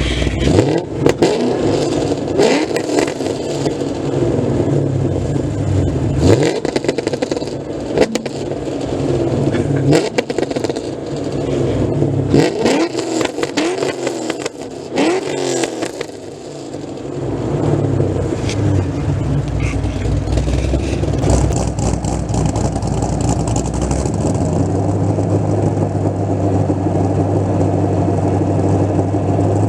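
Pontiac GTO's modified V8 with Trick Flow cylinder heads and a Borla exhaust, revved again and again with quick rises and falls in pitch and sharp cracks during the first half. It then settles into a steady, lumpy idle.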